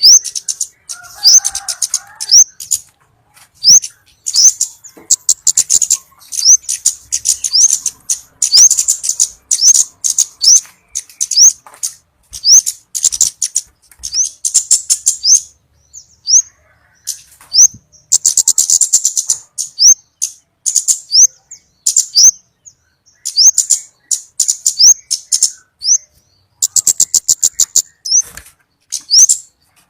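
Scarlet-headed flowerpecker calls played as a bird-lure recording. Short, high notes that rise in pitch repeat about twice a second, mixed with rapid runs of dry ticking clicks.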